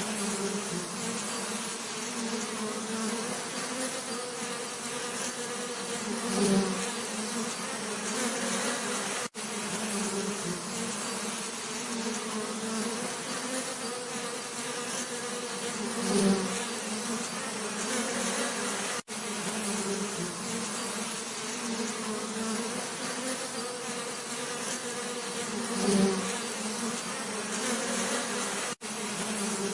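Many bees buzzing steadily, a low drone with a higher hum above it. The buzz swells louder three times, about every ten seconds, and cuts out for a split second just as often.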